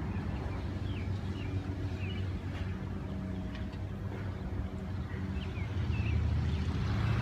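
Steady low hum of a motor vehicle engine running, growing louder near the end, with a few faint, short bird chirps over it.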